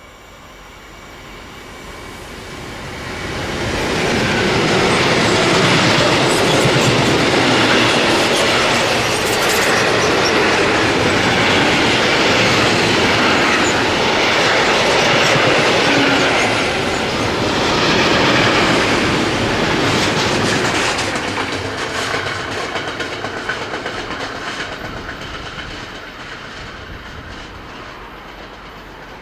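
An electric train passing at speed on the line, its wheels clattering over the rails: it builds over the first few seconds, stays loud for about seventeen seconds, then fades away.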